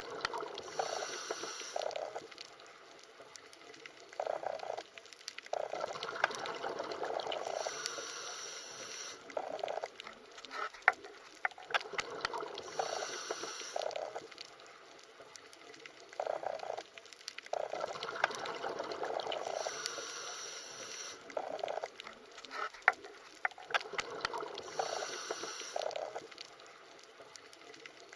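Underwater water ambience: gurgling and bubbling that swells and ebbs every several seconds, with scattered sharp clicks.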